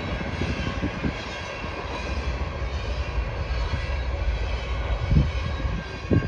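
Freight train cars rolling past: a steady rumble of steel wheels on the rails, with a couple of louder knocks near the end.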